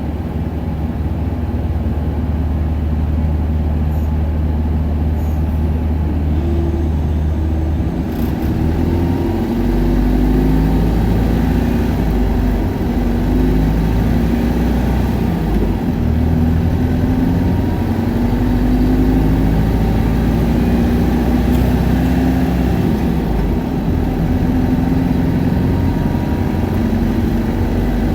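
Isuzu Erga city bus's 5.2-litre four-cylinder turbodiesel idling steadily, then from about eight seconds in revving hard as the bus pulls away and accelerates, the engine note climbing and shifting.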